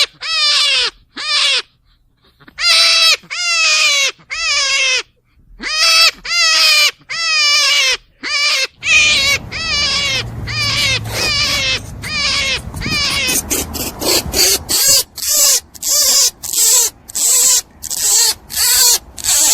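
Rabbit squealing in a long series of short calls, each falling in pitch, grouped in runs with brief pauses between them. From about nine seconds in, a low rumbling noise runs underneath, and the calls become quicker and shorter, about three a second.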